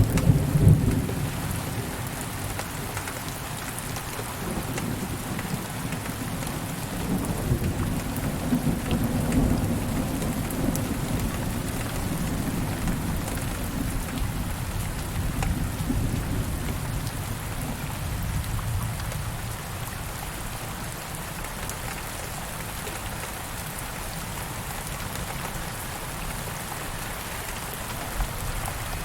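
Steady rain falling, with thunder rumbling. A loud rumble comes right at the start and dies off within a couple of seconds. A second, softer rumble builds about seven seconds in and fades by about twenty seconds, leaving the rain alone.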